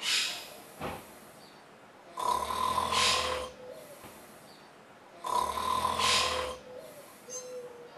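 A person snoring in slow, even breaths, one long snore about every three seconds.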